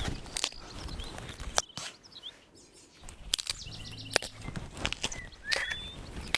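Irregular sharp cracks and rustles of someone moving through brush and dry leaves, with short bird chirps now and then, one clear chirp near the end.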